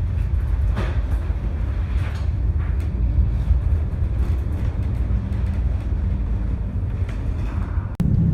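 Steady deep rumble of a ship working through rough seas, with several brief rushes of water or wind noise. It cuts off abruptly near the end and gives way to a louder rumble.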